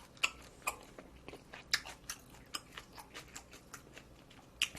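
Close-miked chewing of food: irregular crisp crunches and wet mouth clicks, a few each second.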